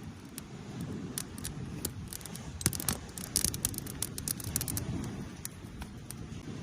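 Close handling sounds: rustling with many short sharp clicks and knocks, thickest around the middle, over a low rumble.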